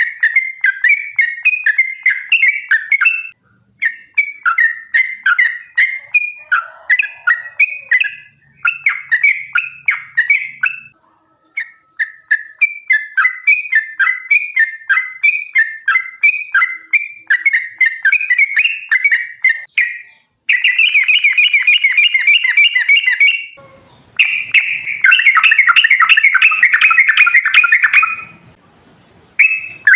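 Yellow-vented bulbul (trucukan) singing: rapid, bubbling chattering phrases repeated over and over with short breaks. Longer stretches of dense, unbroken chatter come in the last third.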